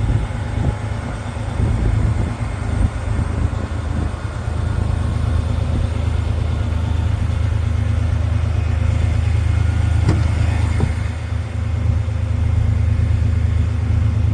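Heavy truck's Volvo D13 turbo-compound diesel engine idling with a steady low rumble.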